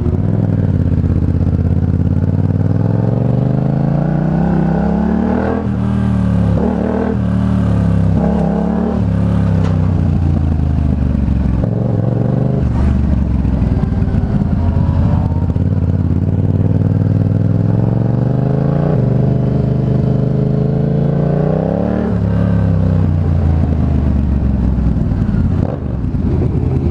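Motorcycle engine accelerating while riding, its pitch climbing and then dropping at each gear change, several times over.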